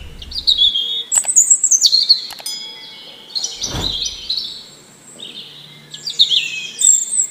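Songbirds chirping, a string of quick, falling chirps, with a short whoosh a little under four seconds in.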